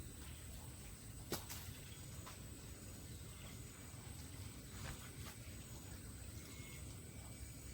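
Steady high-pitched insect drone with short chirps over it, broken by a few sharp clicks, the loudest just over a second in.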